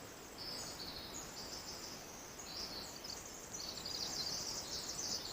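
Forest songbirds singing high, rapid trilling phrases one after another, faint over a quiet hiss of the woods and growing louder in the second half.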